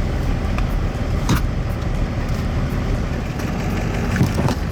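Truck engine idling with a steady low rumble, with a few sharp clicks and knocks, one about a second in and a couple near the end.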